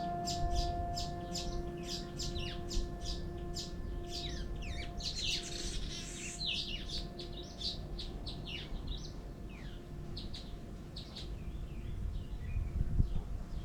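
Small birds chirping in rapid, repeated short calls, with a steady low hum-like tone fading away over the first part and a low rumble underneath.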